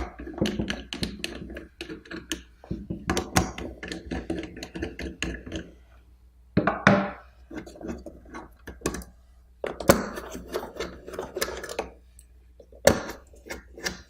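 Hand screwdriver backing out the faceplate screws of a portable gauging thermometer, with irregular clicks, scrapes and knocks of tool, screws and casing coming in several bunches.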